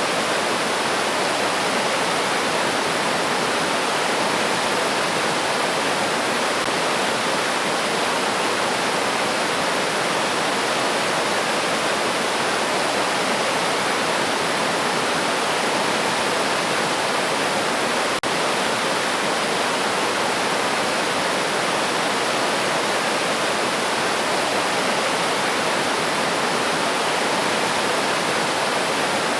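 River stream rushing steadily, an even wash of flowing water with no birdsong standing out.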